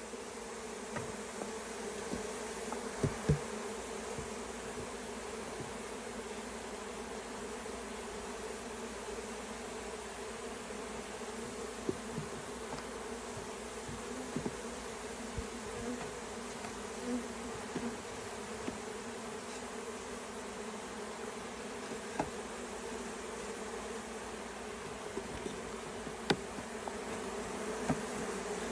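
A mass of honey bees from a swarm buzzing, a steady dense hum, with a few faint taps here and there.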